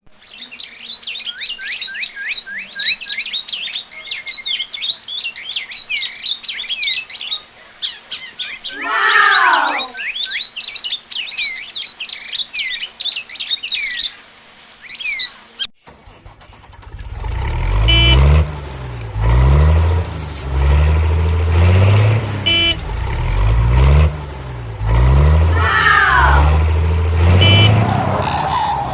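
Birds chirping for roughly the first half, with a falling whistle partway through. Then a loud, low vehicle engine sound takes over, rising and falling in repeating cycles about every two seconds.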